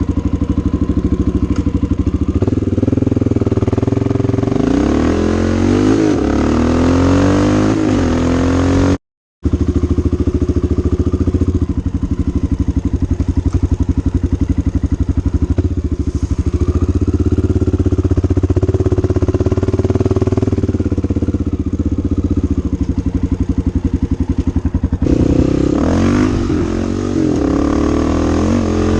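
Honda XR650L's freshly rebuilt single-cylinder four-stroke engine running under way, its revs rising and falling several times. The sound cuts out briefly about nine seconds in.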